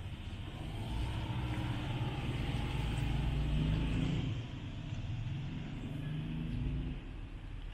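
A large SUV's engine, a Toyota Land Cruiser V8, driving slowly past close by: a low rumble that builds over the first few seconds and then eases as the SUV moves ahead.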